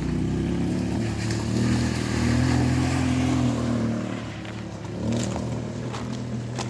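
A motor vehicle's engine running, its pitch rising and falling as it changes speed, with a few light knocks near the end.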